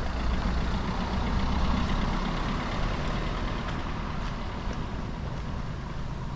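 A motor vehicle's engine running close by, a low rumble that swells over the first couple of seconds and then eases off.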